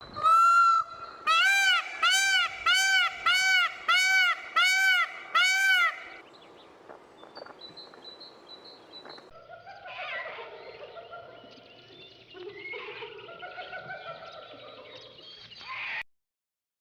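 Animal calls: one call, then seven loud calls in a row, each rising and falling in pitch. After a quieter stretch comes a mix of overlapping calls that cuts off suddenly near the end.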